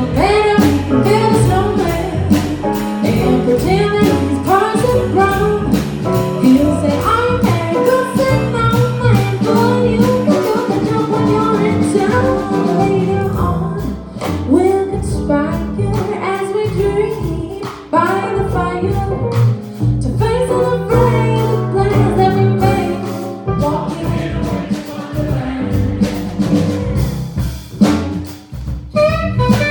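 Live jazz band playing a funky groove, with a melody line over piano, bass and drums.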